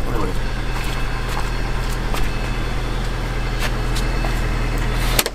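A vehicle engine idling steadily, with a few light clicks over it. The sound breaks off sharply for a moment near the end.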